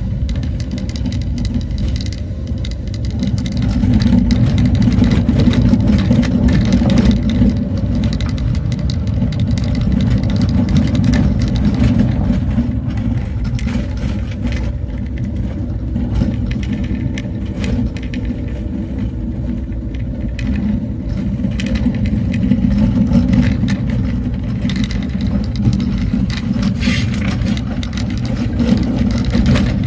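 Motor vehicle driving along a road: a steady low engine and road rumble, louder from about four seconds in, with scattered knocks and rattles throughout.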